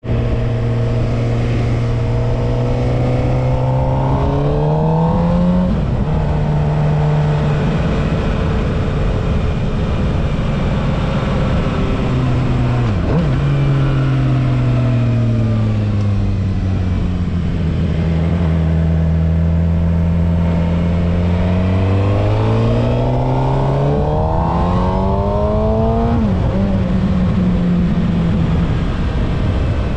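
Suzuki GSX-R750 inline-four engine under way on the road. Revs rise to a quick upshift about five or six seconds in and hold steady. They drop sharply near the middle, fall away and settle low as the bike slows, then climb again to another shift near the end.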